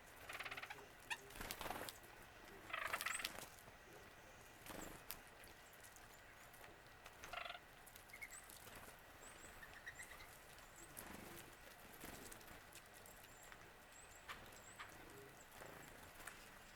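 Wild birds calling: three short, harsh calls in the first few seconds and another about seven seconds in. Faint, high, thin notes from a smaller bird follow in the latter half.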